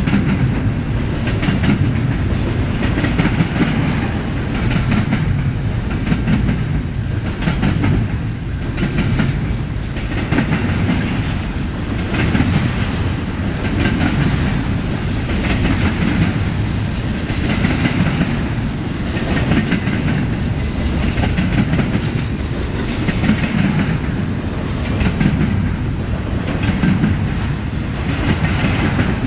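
Double-stack intermodal freight train's well cars rolling past: a steady rumble of steel wheels on rail with a clickety-clack of wheels over joints. The clatter swells and fades about every two seconds.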